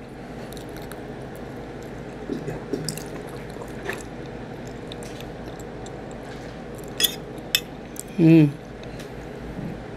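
Close-up eating sounds: wet chewing of macaroni and cheese, with a metal fork clicking against the plate a few times, loudest twice about seven seconds in. A short hum of the voice comes near the end.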